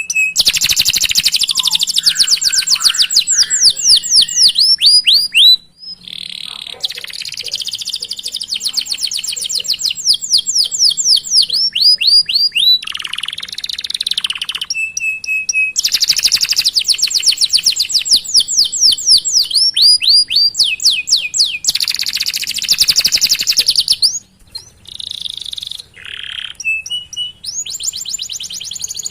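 Domestic canary singing a long rolling song: fast runs of high, sharply falling chirps repeated many times a second, with a couple of brief breaks and short held notes between the runs.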